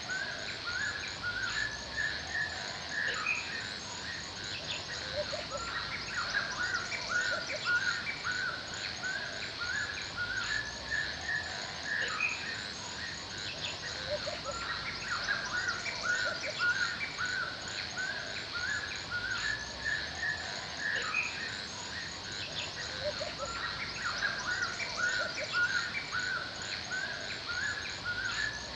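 Forest ambience: birds chirping over and over, with a steady, fast, high-pitched chirring of insects underneath.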